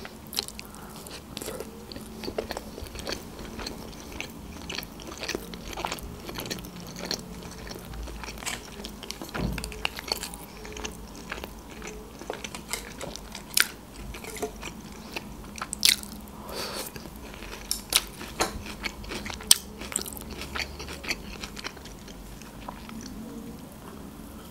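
Close-miked chewing and biting of sushi rolls, with irregular crisp crunches and wet mouth clicks.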